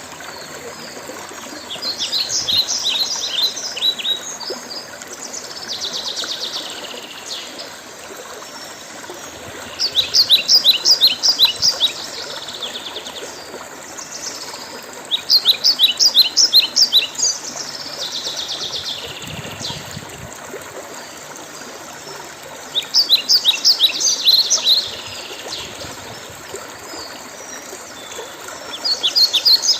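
A songbird singing short phrases of rapid, high trilled notes, repeated about every five to seven seconds, over a steady background hiss.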